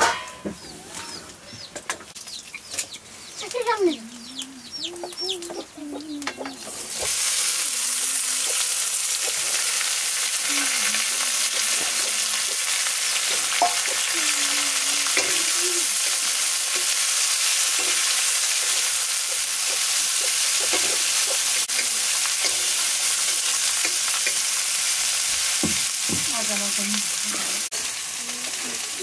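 Chopped vegetables go into hot oil in an iron wok about seven seconds in, and a loud, steady sizzle of frying starts at once and carries on. Before that it is quieter, with small birds chirping, and chickens cluck throughout.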